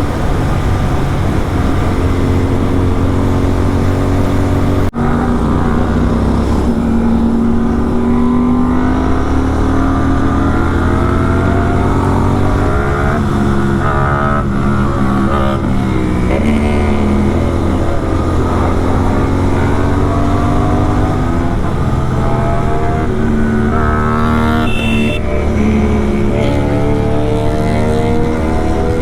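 Superbike engine with a full-system aftermarket exhaust, under way, its revs rising and falling again and again through throttle and gear changes over a steady low rumble.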